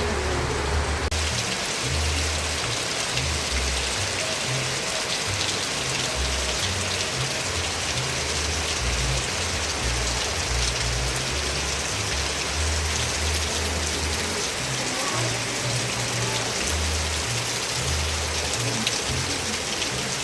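Steady rain falling: a dense, even hiss of drops with an uneven low rumble underneath.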